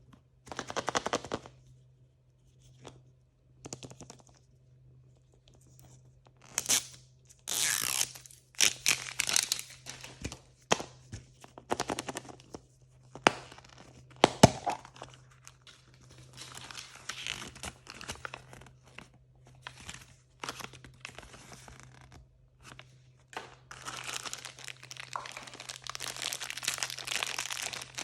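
Blind-bag packaging being torn open and crinkled by hand, in irregular bursts of tearing and crackling with sharp clicks, busiest near the end. A faint steady low hum runs underneath.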